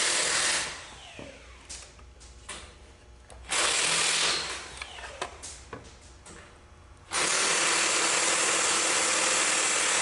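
Hissing blasts of pressurized air from a nozzle, each starting and stopping abruptly: one cuts off about half a second in, a short one comes about a third of the way in, and a long one starts about two-thirds in. Small clicks and knocks of metal parts come between the blasts.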